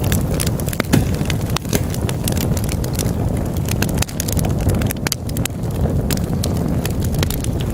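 Wood logs burning in a fireplace, crackling with many irregular sharp pops over a steady low rush of the flames.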